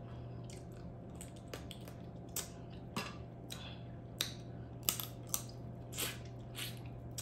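A person chewing and eating food close to the microphone, with irregular short mouth clicks and smacks, over a steady low hum.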